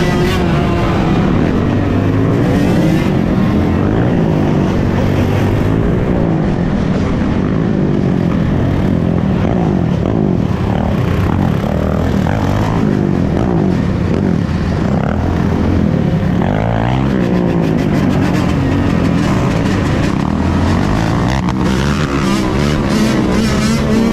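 A pack of dirt bike engines running and revving together, many overlapping engine notes rising and falling at once.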